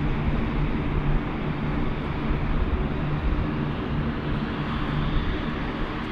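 Airliner's engines running, a steady noise with a low engine hum underneath.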